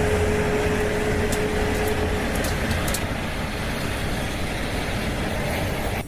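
Airbus A380 cockpit noise with the engines running: a steady rush with a low hum underneath, a thin steady tone that fades out about two seconds in, and a few light clicks.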